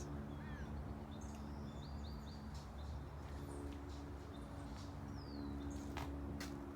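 Small birds chirping and calling in short whistled notes, over a steady low mechanical hum and a few sharp clicks.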